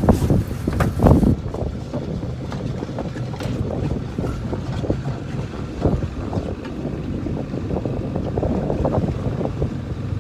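Strong wind buffeting the microphone over the low, steady hum of a small fishing boat's engine, with a couple of knocks in the first second.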